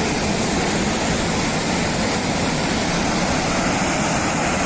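Floodwater rushing down in a torrent, a steady loud roar with no break.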